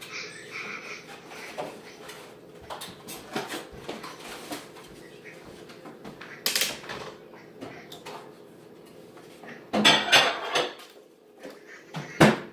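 Dishes and utensils being handled, with scattered clicks and rustles, a louder clatter about ten seconds in and a sharp knock near the end.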